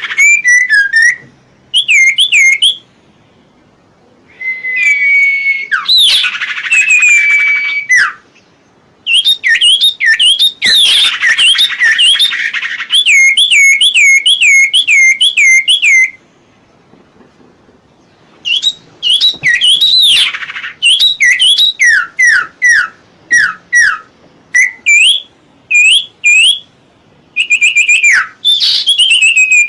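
Iora (cipoh) singing: phrases of quick, repeated chirping and whistled notes, broken by short pauses of a second or two.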